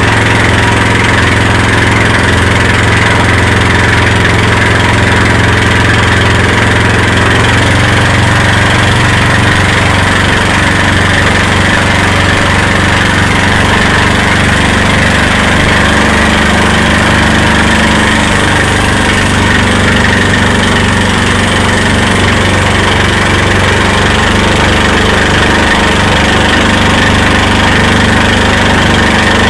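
Motorboat engine running steadily while towing a banana boat, under a broad rush of noise.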